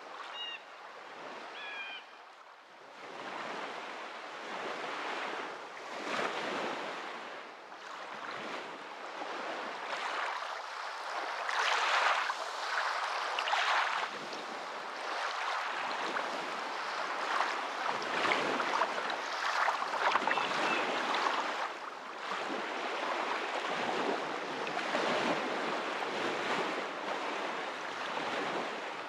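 Ocean waves washing in, a rushing noise that swells and eases every few seconds. A few faint chirps sound near the start.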